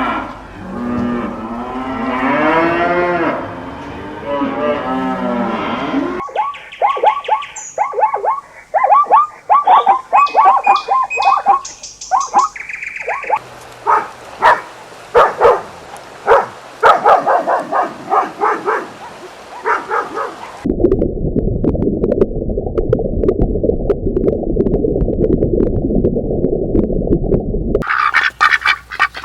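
Cattle mooing, several long pitched calls in the first six seconds, followed by a run of other short farm-animal calls: a quick series of pitched calls, then calls mixed with clicks, a stretch of low rumbling noise, and high-pitched calls near the end.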